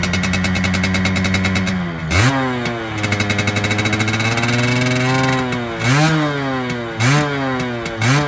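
Suzuki Xipo two-stroke single-cylinder engine running through its expansion-chamber exhaust, with the throttle worked. It rises sharply in pitch about two seconds in and climbs slowly before dropping back. Three quick throttle blips follow near the end.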